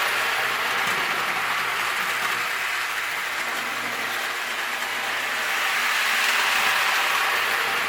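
Marx Wm. Crooks toy steam locomotive with its tender, flat car and caboose running on three-rail O-27 tin track: a steady whir of the electric motor and the clatter of wheels on the rails. It grows louder near the start and again about six seconds in as the train comes round past the microphone.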